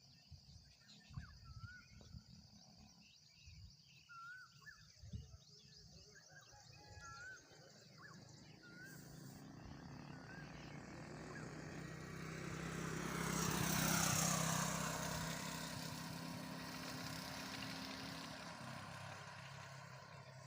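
A vehicle passing by outdoors: its sound builds to a peak about two-thirds of the way in, with a steadily falling pitch as it goes past, then fades. A few short chirps come before it.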